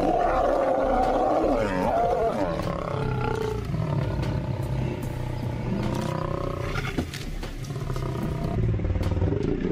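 Male lions growling and snarling at each other in a fight. A loud, wavering snarl breaks out at the start and is strongest for the first two seconds, then settles into a steadier, lower growl.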